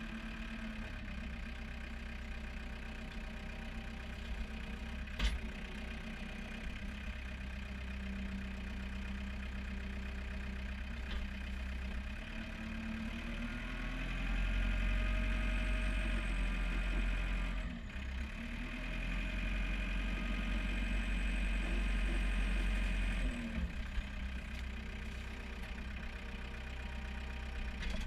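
John Deere 4720 compact tractor's diesel engine running, its speed rising and held higher for a few seconds twice around the middle before settling back. There is a single sharp knock about five seconds in.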